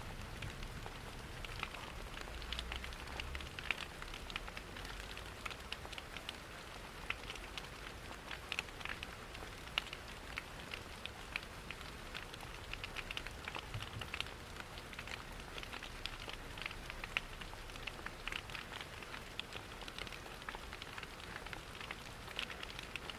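Steady rain pattering on windows, mixed with a crackling fireplace: many small, irregular crackles and ticks over an even wash of rain noise and a faint low rumble.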